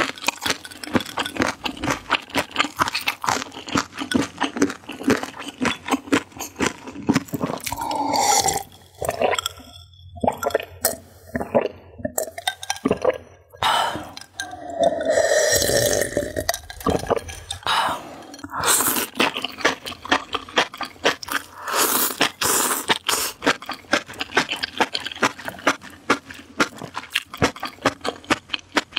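Close-miked eating sounds: rapid crunching and wet chewing of food. About halfway through it pauses for a drink from a glass, with a longer voiced sound a little after, then the crunchy chewing resumes.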